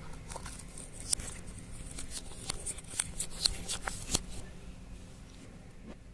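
Clear slime being squeezed and stretched by hand, giving an irregular run of sharp clicks and pops that dies away after about four seconds.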